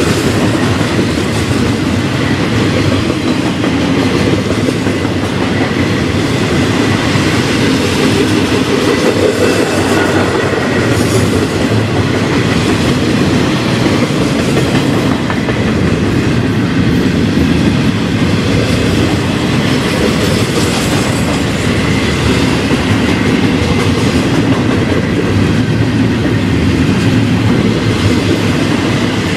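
Double-stack container well cars of a long freight train rolling past, their wheels clicking and rumbling steadily over the rails.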